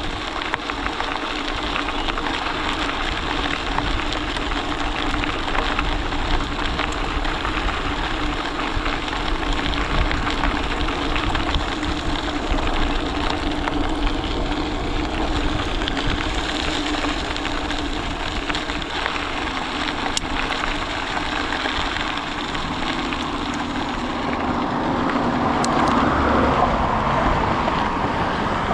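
Steady noise from a bicycle rolling along a rail trail: tyres on the trail surface and wind on the microphone, with a faint hum that swells near the end.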